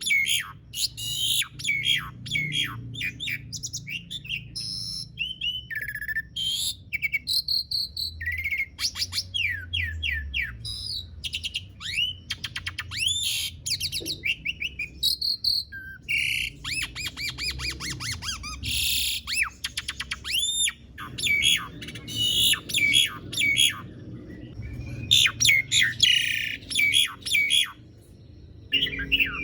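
Asian pied starling (jalak suren) singing a long, unbroken, varied song of rapid chattering notes, whistled glides that rise and fall, and fast trills, with only brief pauses.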